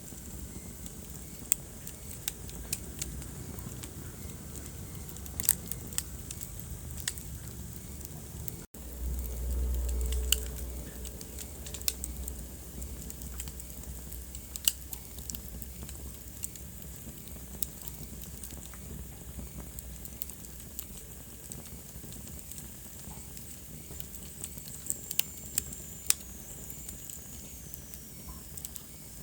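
Wood fire crackling, with scattered sharp pops over a steady hiss. About 9 seconds in, the sound drops out for an instant and a low rumble swells for a couple of seconds. Near the end, a faint high whistle slides downward.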